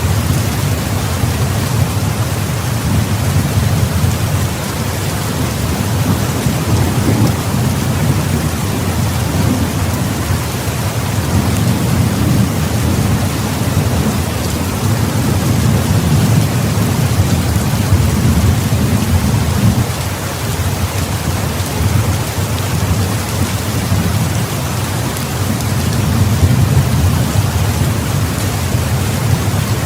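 Heavy rain pouring steadily, with low rolling thunder swelling and fading several times.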